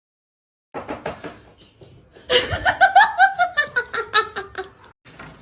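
A person laughing in quick repeated bursts, getting louder about two seconds in, each burst falling in pitch, then cutting off shortly before the end.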